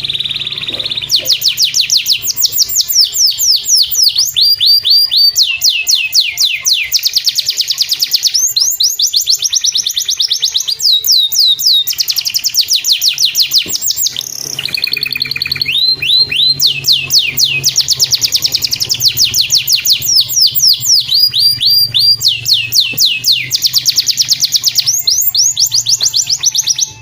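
Domestic canary singing a long, rapid song of fast trills and quickly repeated down-sweeping notes, phrase after phrase with short breaks between them.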